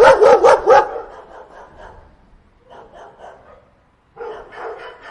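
Dog barking in a fast run of yaps, about six loud barks in the first second. Fainter barks follow, and another louder burst of barking comes near the end.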